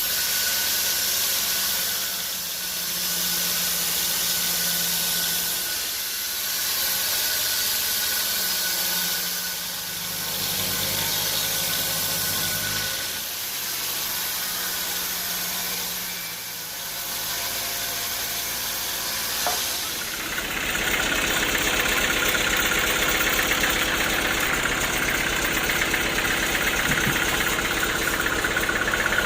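Engine-driven homemade sawmill running, with a steady hiss over the engine note. For the first two-thirds the engine swells and eases every few seconds; then it becomes louder and rougher, as under heavier load.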